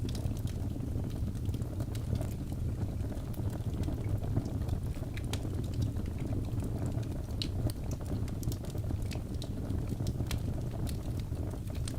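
Birch logs burning in a fireplace: a steady low rumble of flames with scattered sharp crackles and pops throughout.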